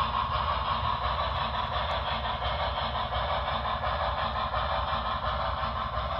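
HO-scale model steam locomotive's onboard sound decoder playing steady running and rumble sounds through its small speaker.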